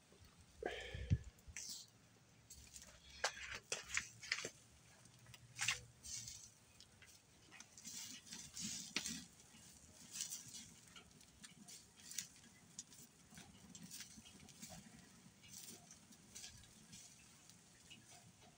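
Faint, irregular mouth clicks and smacks of someone chewing a bite of grilled pork, with a single low bump about a second in.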